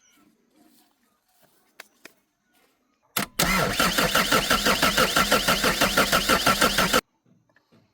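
Car engine cranking on its starter motor for about four seconds, with an even beat of about five to six pulses a second, then cut off suddenly without catching: a non-starting engine.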